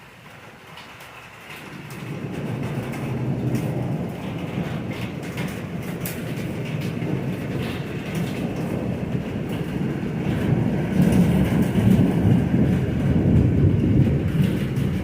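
Long rolling rumble of thunder, building about two seconds in and swelling louder near the end.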